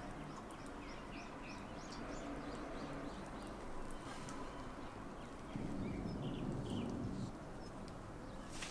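Birds chirping steadily in the background, over quiet plating sounds. About five and a half seconds in, a louder soft low sound lasts roughly a second and a half, and a single sharp click comes near the end.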